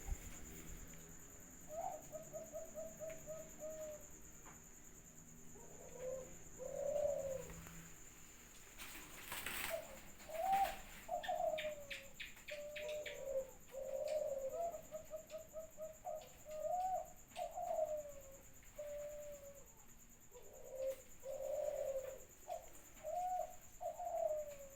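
Doves cooing over and over: short rolling trills of quick notes alternating with longer drawn-out coos. A brief burst of noise comes about ten seconds in.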